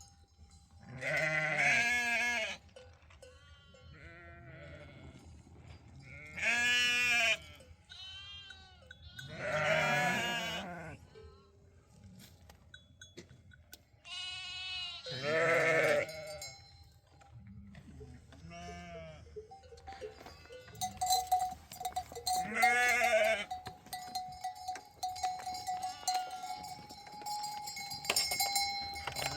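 Sheep bleating: about five loud calls a few seconds apart, with fainter bleats between them. From about two-thirds of the way in, a livestock bell rings steadily under the calls.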